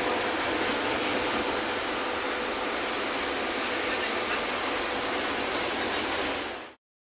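Heavy rain pouring down in a steady hiss, cutting off suddenly near the end.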